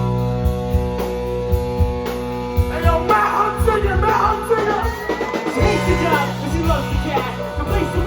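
Live rock band playing an instrumental break: drums and bass under sustained chords, with a busy lead line coming in about three seconds in and holding one long note.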